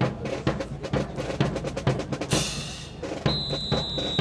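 Drum cadence of rapid, regular snare and bass drum strokes, with a cymbal-like crash about two seconds in. A steady high-pitched tone starts near the end.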